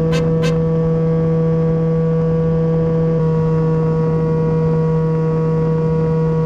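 Battery-powered electric motor and propeller of an RC floatplane droning steadily at one pitch, heard from the camera mounted on the plane, with some wind noise. The tone shifts slightly about three seconds in.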